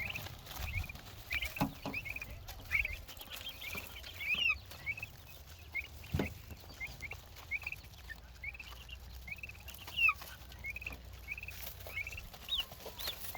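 Young turkeys peeping: a steady run of short, high chirps, about two a second, with a couple of dull knocks among them.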